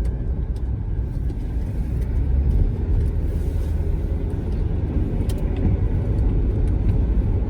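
Steady low road and engine rumble of a car driving, heard from inside the cabin, with a couple of faint clicks about five seconds in.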